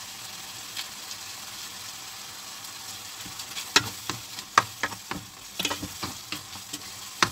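Diced chicken sizzling in oil in a stainless steel pan. From about three and a half seconds in, a spoon stirs it, clicking and scraping against the pan.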